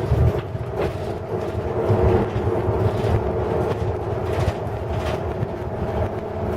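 Hino Blue Ribbon City Hybrid bus running along the busway, heard from inside the cabin: a steady low rumble with a held hum, and a few short knocks scattered through.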